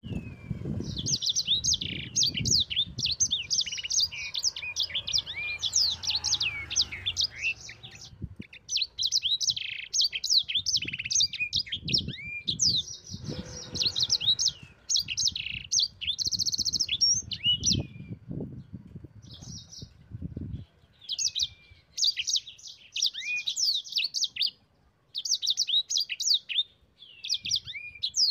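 Yellow-fronted canary (sanger) singing: long, fast runs of high chirps and trills broken by short pauses. A low background rumble runs under the song through roughly the first two-thirds.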